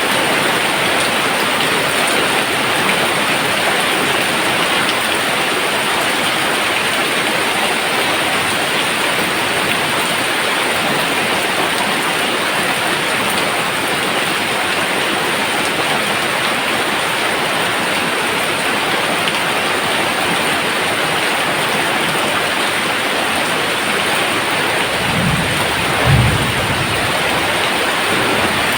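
Steady rain falling, with a brief low rumble of thunder near the end.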